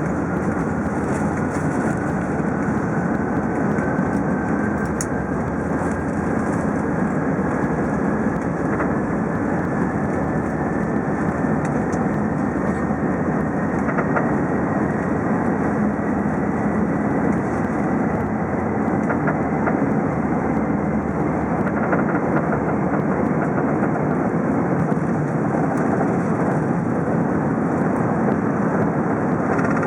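Airbus A380 cabin noise: a steady rush of jet engines and airflow, with a faint whine from the Rolls-Royce Trent 900 engines slowly rising in pitch over the first half.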